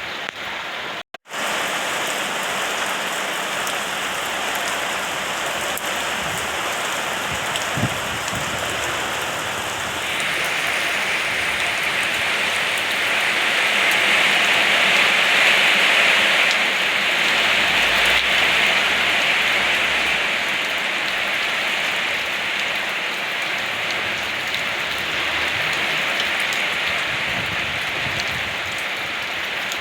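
Steady rain falling, a continuous hiss that swells heavier about a third of the way in and then eases slightly. The sound drops out for an instant about a second in.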